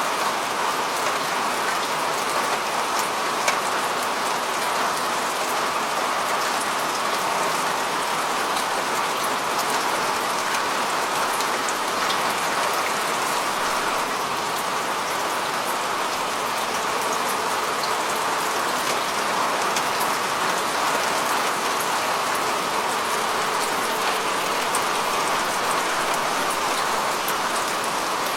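Steady rain falling on a rooftop: an even, unbroken hiss with individual drops ticking sharply all through.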